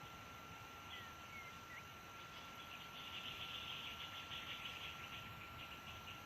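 Faint outdoor ambience: a few short, high chirps about a second in, then a rapid buzzing trill lasting about two seconds, over a steady faint high whine.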